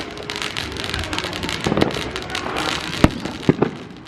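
Neighborhood fireworks: a dense run of crackling firecrackers, with a sharp bang about three seconds in and two more close together half a second later.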